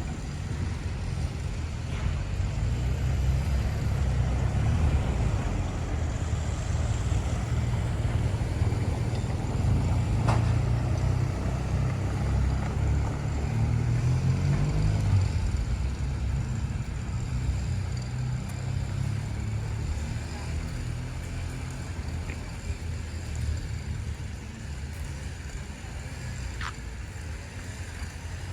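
City street traffic: a motor vehicle's engine running close by, rising in pitch about halfway through and then fading away over the last ten seconds or so.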